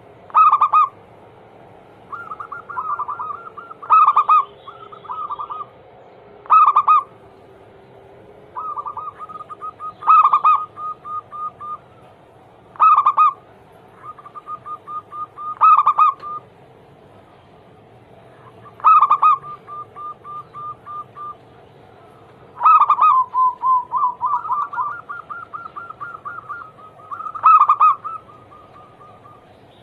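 Zebra doves (perkutut) singing their cooing song over and over: each phrase opens with a loud note and runs into a quick string of softer repeated notes, a new phrase every two to three seconds.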